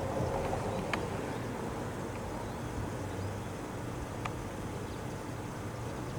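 Steady outdoor background rumble, with a couple of brief high chirps or clicks: one about a second in and another about four seconds in.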